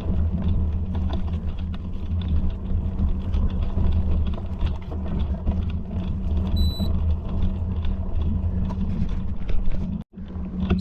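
Steady low rumble with a short high electronic beep about two-thirds of the way through. The sound drops out for an instant near the end.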